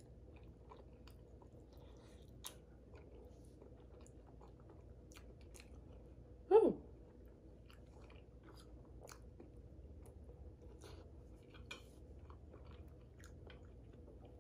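A person chewing lasagna, with soft mouth clicks and smacks. About six and a half seconds in there is one brief, louder sound that falls in pitch.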